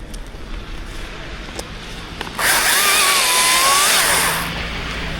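Chainsaw run at full throttle in one short burst of about two seconds in the middle, its pitch wavering slightly, before dropping back.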